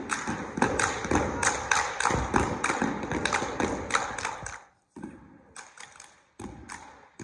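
Rapid series of sharp taps and thuds, several a second, from an indoor basketball game. It cuts out abruptly about four and a half seconds in, then returns in short stretches.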